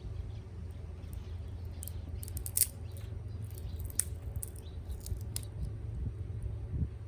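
Wood fire crackling: scattered sharp pops and snaps, a quick cluster about two and a half seconds in and single sharp pops later, over a steady low rumble.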